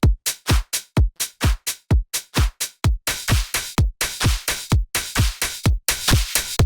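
Electronic dance-music drum loop: a punchy kick whose pitch drops on every hit, layered with bright snare and hi-hat noise, about four hits a second in a steady groove.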